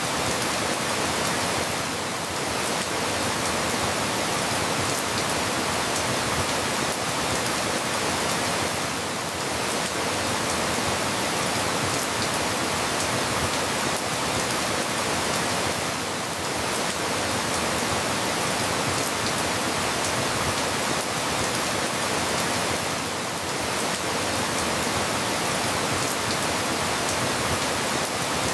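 Steady rain falling, an even hiss with slight dips in level about every seven seconds.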